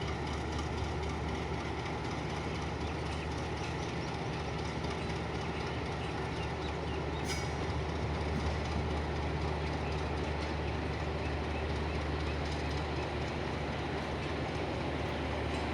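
Passenger train rolling steadily past as it pulls out of the station, its wheels clicking over the rail joints in a continuous run. There is one sharper click about seven seconds in.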